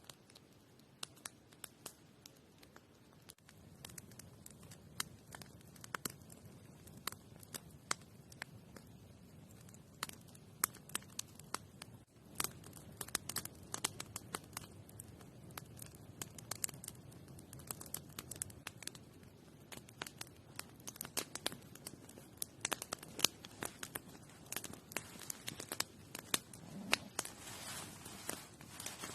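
Many irregular sharp crackles and clicks over a low steady rumble, becoming busier and a little louder about twelve seconds in.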